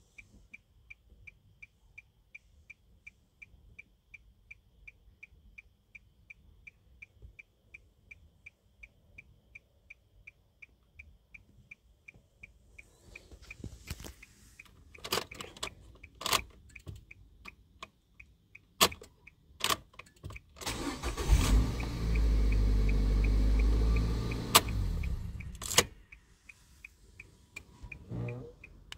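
A fast, even high ticking, about three or four ticks a second, with scattered clicks. About three-quarters of the way through, the 2012 Nissan Qashqai's engine starts and runs steadily for about four seconds, then stops suddenly.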